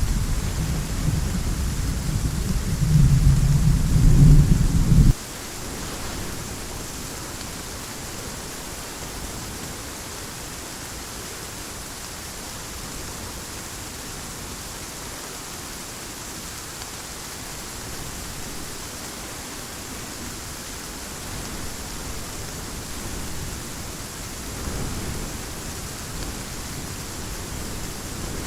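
Heavy rain with low rolling thunder, the rumble loud for the first five seconds and then cutting off suddenly. Steady rain hiss follows, and a faint low rumble swells again near the end.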